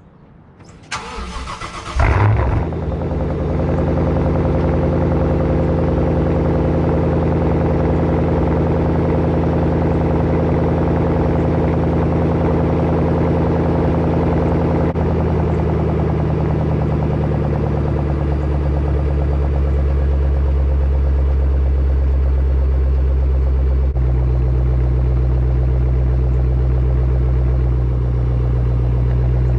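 Shelby GT500's supercharged V8 cold-starting through a Borla ATAK exhaust. The starter cranks briefly, the engine catches with a loud flare about two seconds in, then settles into a steady fast cold idle that drops lower in pitch in steps as it warms.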